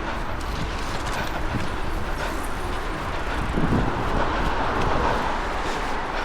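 Wind buffeting a small body-worn action camera's microphone, with street traffic and a vehicle passing, loudest about three and a half to five seconds in.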